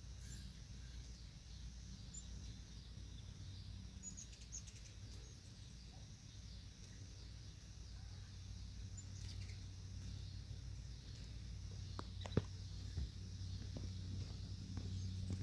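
Many hummingbirds swarming close by, their wings making a steady low hum like a beehive, with high twittering chirps over it and a couple of sharp ticks near the end.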